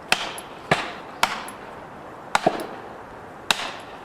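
A series of sharp knocks, about six in four seconds at uneven spacing, some coming in quick pairs.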